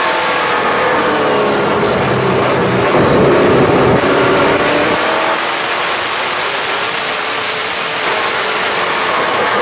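Super late model race car's V8 engine at racing speed, heard from inside the car. The revs fall for the first few seconds, a louder rush comes about three seconds in, and the revs then climb through the middle before easing again near the end, like lifting for a corner and accelerating out of it.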